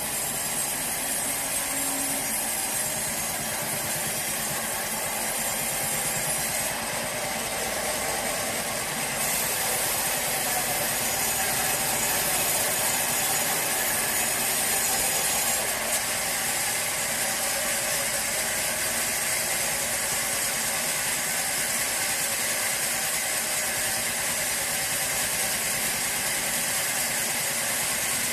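Sawmill machinery running steadily: a motor drone with a high hiss that shifts slightly a few times.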